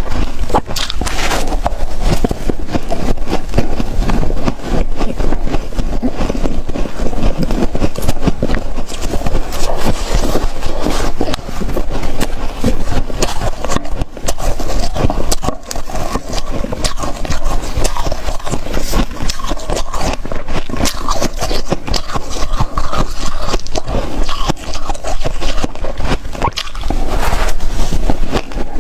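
Close-miked biting and chewing of ice: dense, continuous crunching and crackling.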